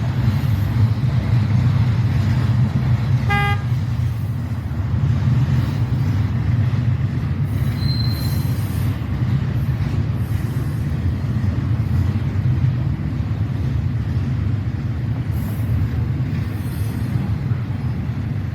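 Slow-moving train rolling past with a steady low rumble of wheels and cars. A brief pitched toot comes about three and a half seconds in, and a short high squeal about eight seconds in.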